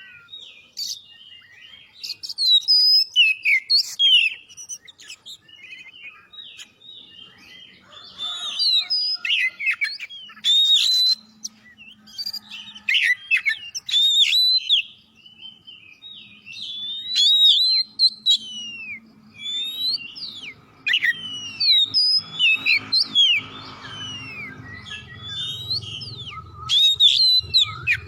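Oriental magpie-robin (kacer) in full song: a rapid, varied run of loud clear whistles, quick rising and falling sweeps and chattering notes, delivered in phrases with short pauses.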